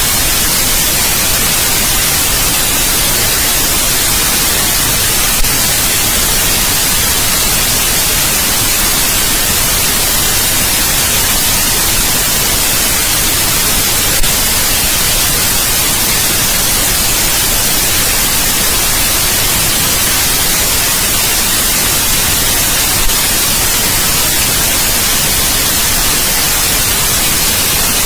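Steady white noise: an even, unbroken hiss, brightest in the treble. Three faint ticks are spread through it, about nine seconds apart.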